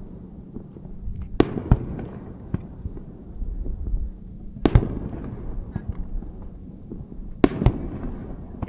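Aerial firework shells bursting: three loud bangs about three seconds apart, each followed soon after by a smaller bang and a trailing echo, with scattered lighter pops in between.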